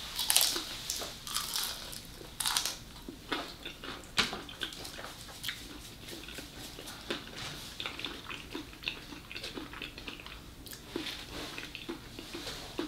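Close-up eating sounds of a fried cream cheese wonton: crisp crunching bites over the first couple of seconds, then steady chewing with small crunches and mouth clicks.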